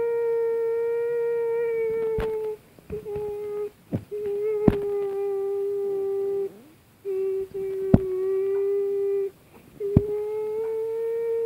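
A person, most likely a child, humming one steady, unwavering note over and over in stretches of one and a half to three seconds with short breaks for breath, imitating the drone of an airplane engine. Sharp clicks fall between the hums, and the last hum drops in pitch near the end.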